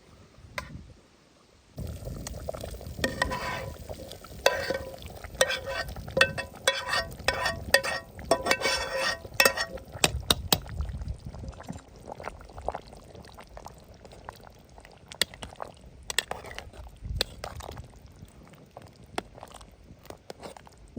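Liquid being poured and splashing during cooking, with many sharp clinks and knocks. The pouring starts suddenly about two seconds in and is busiest until about halfway, then thins to scattered clinks.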